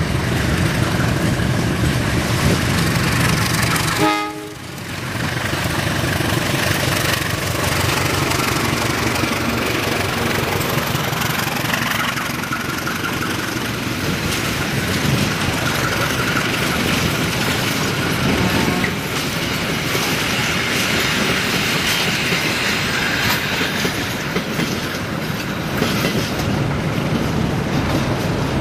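A CC 201 diesel-electric locomotive pulls a rake of passenger coaches out of the station and past. Its engine runs, and the coaches' wheels clack over the rail joints as they roll by.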